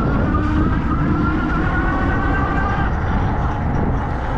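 Riding an electric bike with a front hub motor: heavy wind and road rumble, with a faint high motor whine that edges slightly upward in pitch.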